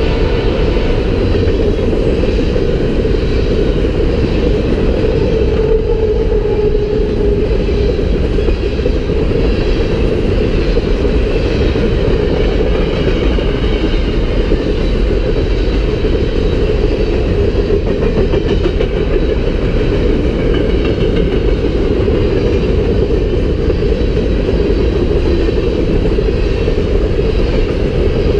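Covered hopper cars of a freight train rolling past close by: steady, loud, low noise of steel wheels running on the rails.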